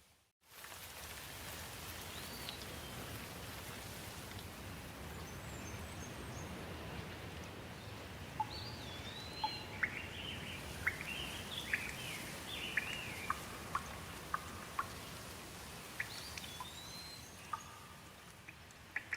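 Steady rain hiss after a split-second dropout at the start, with birds calling over it in short whistled phrases that sweep up and down. Sharp ticks of falling drops come in about halfway through and grow more frequent near the end.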